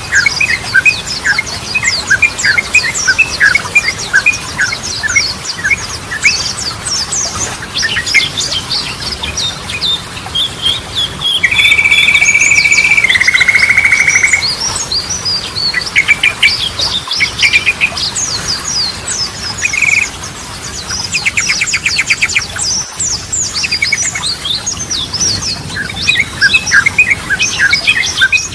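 Yellow-vented bulbul (trucukan) singing in a rapid, busy run of chirps and chatter. About eleven seconds in there is a loud steady note held for about three seconds that steps down to a lower pitch partway. A fast rattling trill comes around twenty-one seconds.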